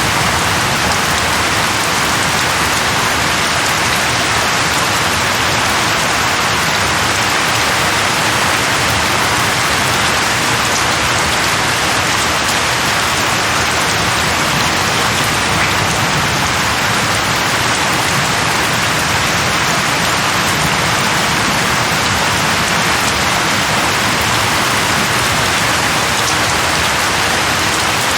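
Steady rain, an even, unbroken hiss of falling drops without thunder.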